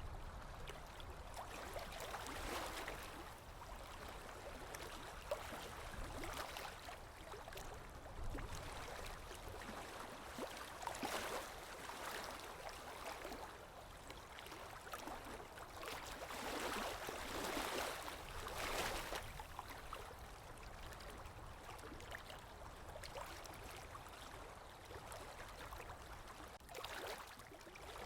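Sea waves breaking and washing up a shore: a steady rush of surf that swells and falls back every few seconds, the biggest swells near the middle.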